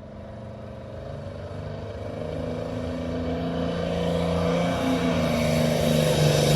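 A pulling vehicle's engine running with a steady, deep note, growing steadily louder.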